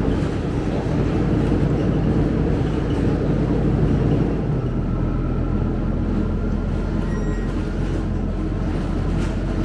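Scania K270UB single-decker bus running. About halfway through, the engine note drops and settles into a steadier, slightly quieter hum.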